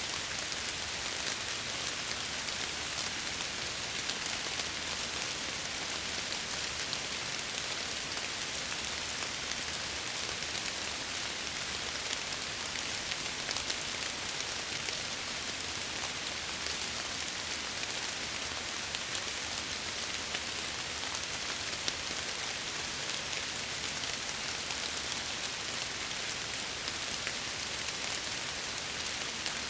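Steady rain pattering on window glass, an even hiss with small scattered drop ticks.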